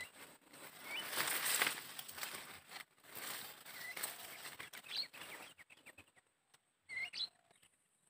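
Small bird chirping: short, upward-flicking chirps every second or two, some in quick pairs near the end. They sit over a rushing noise that dies away past the middle.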